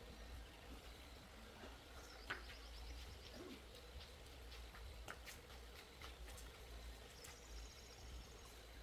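Quiet outdoor background with a low rumble, two short high trills of a small bird a few seconds apart, and a few faint scattered clicks.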